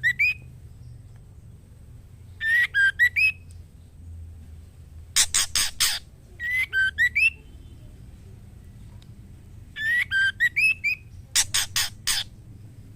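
Female white-rumped shama calling: four short whistled phrases of slurred notes that dip and rise, a few seconds apart, twice followed by a harsh rattling chatter of four or five rasps. It is a female's call to a male, made in breeding condition.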